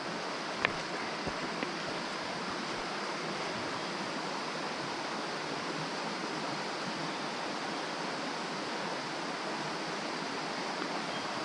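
Mountain stream water running steadily, with a single light click about half a second in.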